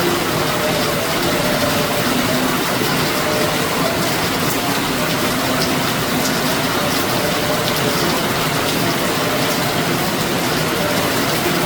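Heavy rain pouring steadily, with scattered sharp drop hits and a faint wavering hum beneath.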